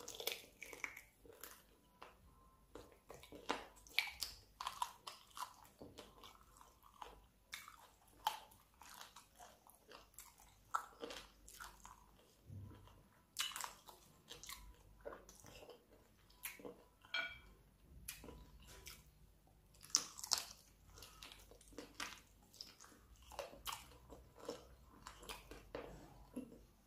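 A person biting and chewing chicken feet: irregular, quick crunches and wet mouth clicks as she works the skin and cartilage off the bones.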